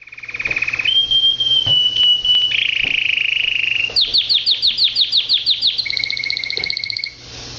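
Domestic canary singing: a fast trill, a held whistled note, a buzzy trill, then a string of quick down-slurred notes and a final two-pitched trill, stopping about seven seconds in.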